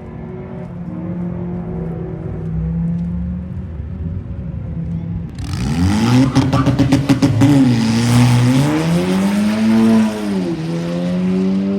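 Turbocharged 2.0-litre four-cylinder of a tuned Audi A3 drag car holding steady revs on the line. About five seconds in it launches hard with a loud crackling burst. Its pitch then climbs and drops sharply at two quick dual-clutch gear shifts as it accelerates away.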